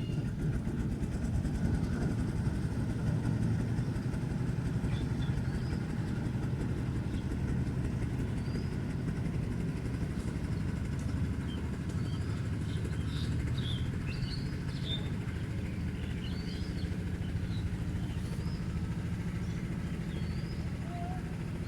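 An engine running steadily at an even speed, with birds chirping now and then above it.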